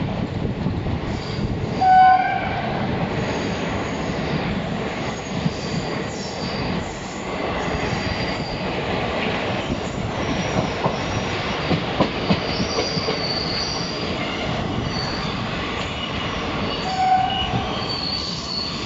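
Indian Railways passenger coach rolling through a yard, heard from its open door: steady wheel and running noise with high-pitched wheel squeal, a few sharp knocks over the rail joints and points around the middle, and a short loud tone about two seconds in, with a briefer one near the end.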